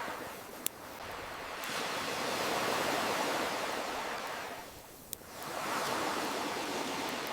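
Ocean waves washing on a shore, the rush swelling, falling away about five seconds in and building again, with two sharp pops of a crackling campfire, one near the start and one as the wave recedes.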